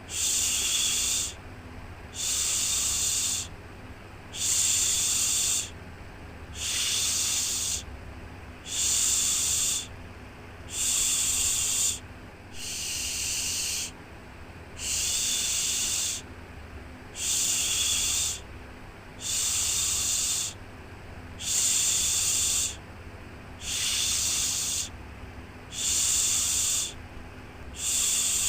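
Rhythmic 'shhh' shushing for lulling a baby to sleep: a hissing shush about every two seconds, each lasting a little over a second. Under it runs a faint, steady low rumble.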